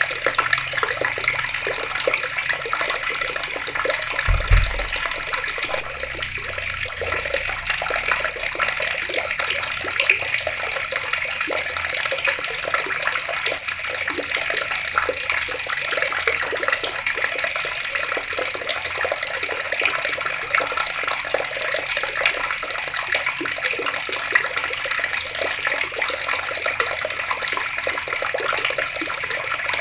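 Water pouring steadily from an outdoor water tap, splashing as it lands. A brief low thump about four seconds in.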